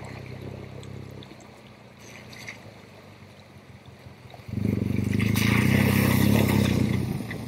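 Motorcycle engine running low and steady, then suddenly revving up loud about four and a half seconds in and easing off near the end.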